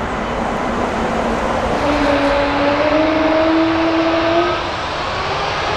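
Jet airliner engines roaring close by, a steady loud rush with a tone that climbs slightly from about two seconds in and fades a couple of seconds later.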